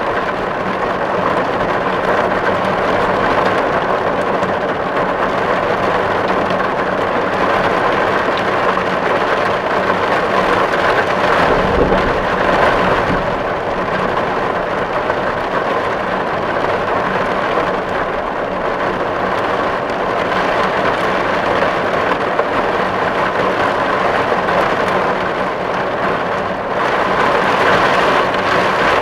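Steady heavy rain drumming on a tin roof, with the patter of drops on the metal, and a brief low rumble near the middle.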